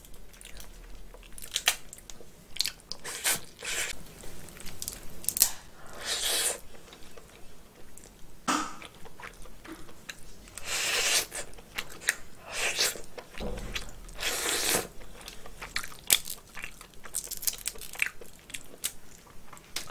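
Close-miked chewing of steamed snow crab meat: irregular soft wet bites and chews, a few louder ones about 6, 11 and 15 seconds in.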